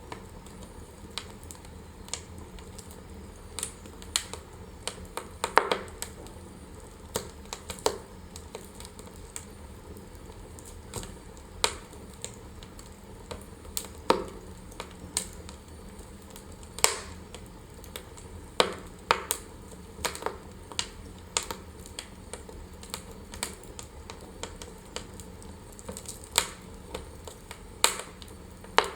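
Wood fire crackling in a fireplace: irregular sharp pops and snaps, a few every couple of seconds, over a faint steady low rumble.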